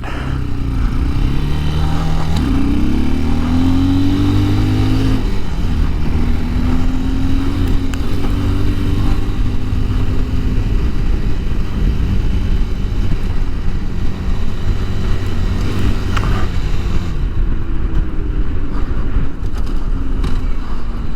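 Bashan Brozz 250 dual-sport motorcycle engine pulling away and accelerating, rising in pitch twice in the first ten seconds, then running steadily at cruising speed.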